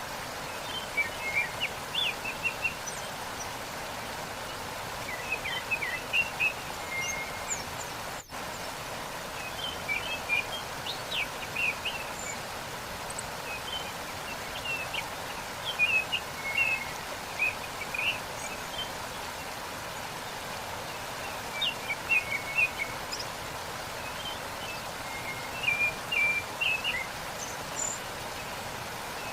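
Waterfall rushing steadily, with small birds chirping in short, repeated bursts of quick high notes throughout. A brief dropout in the sound about eight seconds in.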